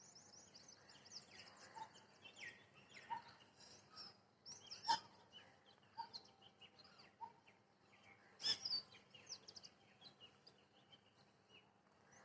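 Parrot calling from a tree among other birds chirping and twittering, with two loud sharp calls about five and eight and a half seconds in.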